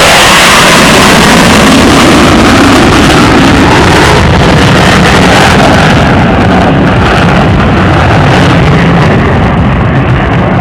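Very loud jet noise from an F-16 of the Thunderbirds passing the crowd, steady and hissing; its highest part thins out about halfway through as the jet draws away.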